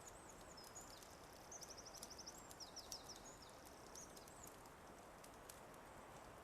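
A small songbird singing high chirps and a quick trill of repeated notes, fading out about two-thirds of the way in. Faint fireplace crackles pop here and there over a soft steady hiss.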